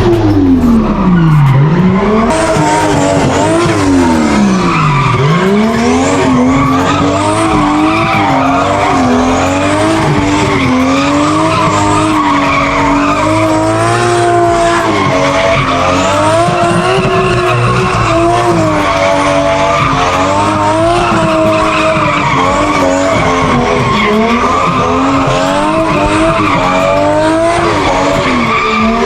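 A car engine revving hard over skidding tyres: a car drifting. Its pitch dives and climbs sharply twice in the first five seconds, then keeps wavering up and down as the throttle is worked.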